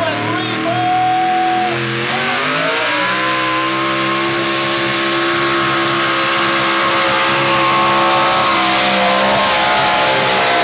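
Pulling truck's engine at full throttle hauling the sled: it revs up about two seconds in, then holds at high, steady revs under heavy load.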